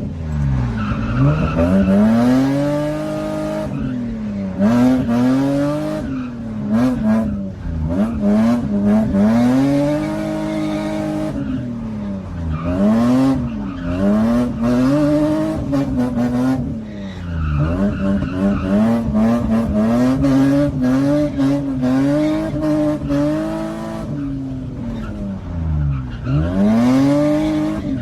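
BMW E30 engine revving hard and dropping back again and again, its pitch rising and falling every few seconds, with tyres squealing and skidding as the car drifts.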